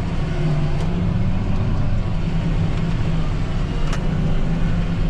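John Deere 8230 tractor's six-cylinder diesel running steadily under load as it pulls a disc harrow, a constant low drone. There is a single faint click about four seconds in.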